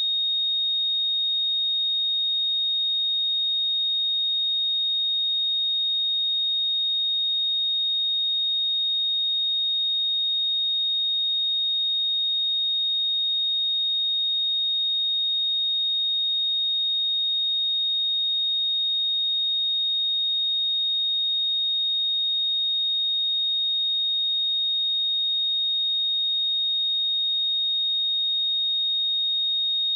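A pure 3721 Hz sine-wave test tone, a single high-pitched steady whistle-like tone held at a constant level.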